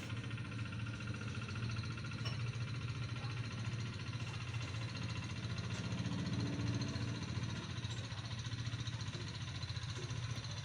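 Engine idling steadily: a low, even hum with a fast regular pulse.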